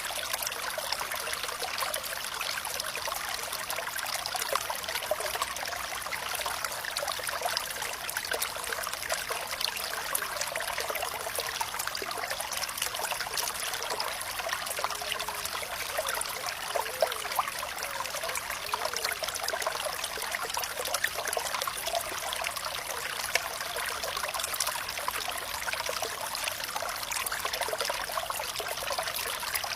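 Water trickling and splashing in a steady flow, a small stream or fountain, with fine bubbling and droplet detail.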